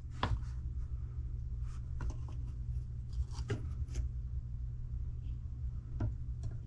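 Small parts handled by hand on a workbench: scattered faint clicks and light scraping as an RC car's electric motor is worked on, over a steady low hum.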